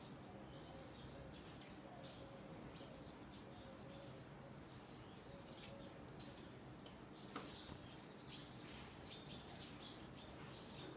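Faint, high-pitched bird chirps scattered throughout, over a low background hum, with one brief click about seven seconds in.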